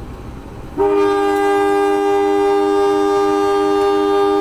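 Locomotive air horn sounding one long, steady blast that starts suddenly about a second in.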